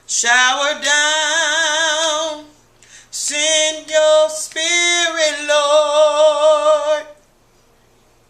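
A woman singing a worship song unaccompanied, in long held notes with vibrato. The singing stops about seven seconds in.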